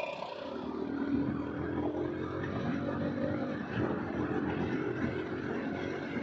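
Motorcycle engine running at a steady pitch while riding, heard over a continuous rushing noise.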